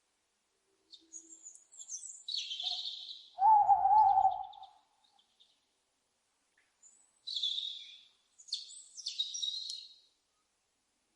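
Owls calling: harsh, high-pitched screeches in three bouts, and about three and a half seconds in a single lower, wavering hoot that is the loudest call.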